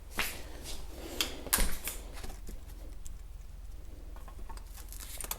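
Handling noise: scattered light clicks and knocks, the loudest about a second and a half in, over a steady low rumble.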